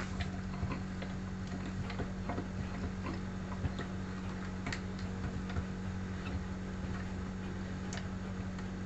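Steady low electrical hum with irregular light ticks and clicks scattered through it.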